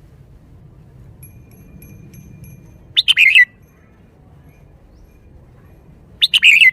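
Red-whiskered bulbul singing two short, loud song phrases about three seconds apart, each a quick run of notes lasting about half a second.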